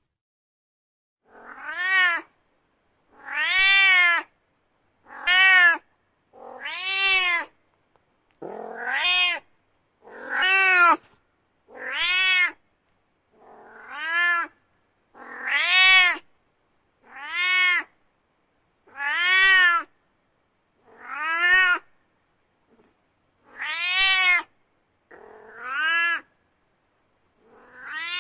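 A domestic cat meowing over and over: about fifteen separate meows, each about a second long, rising then falling in pitch, with short silent gaps between them.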